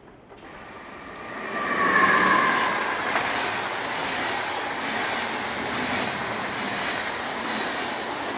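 A train passing close by. The noise swells to its loudest about two seconds in, where two high tones sound briefly and dip slightly in pitch, then it settles into a steady rush of the passing train.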